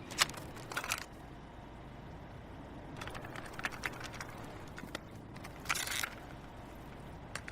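A gap between songs: low hiss with scattered faint clicks and short crackles, a few of them clustered around three to four seconds in and again near six seconds.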